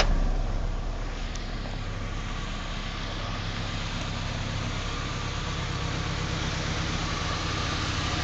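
Honda Integra GSR 1.8-litre DOHC VTEC four-cylinder (B18C1) swapped into a Civic hatchback, idling steadily. A sharp click comes at the very start.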